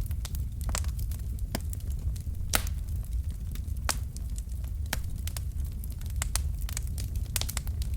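Wood fire crackling in a fireplace: irregular sharp pops and snaps from the burning logs, a few louder ones, over a steady low rumble of the flames.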